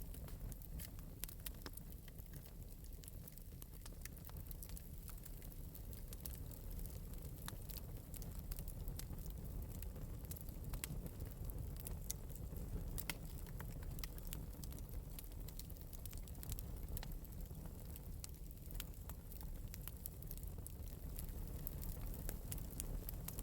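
Fire crackling in an open metal fireplace: scattered sharp pops and ticks at an uneven pace over a low steady rumble.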